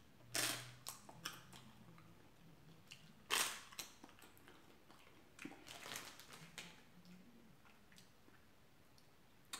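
Paper-thin wafer candy bitten and chewed with a few short crisp crunches: one about half a second in, a louder one about three and a half seconds in, and smaller crackles around six seconds.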